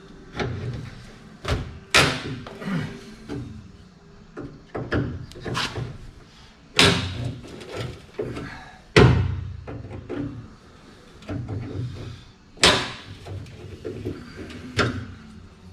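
A run of sharp knocks and bangs, about nine at irregular intervals, the loudest about nine seconds in, from hand-tool work on tight screws in a truck door's latch hardware.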